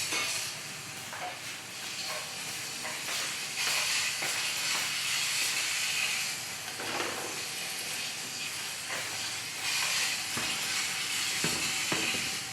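A steady hissing rush of noise that swells louder a couple of times, with a few light knocks near the end.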